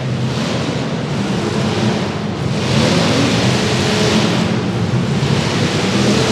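Several demolition derby cars' engines running loud and hard, a dense noisy engine sound that swells and eases in waves as they rev.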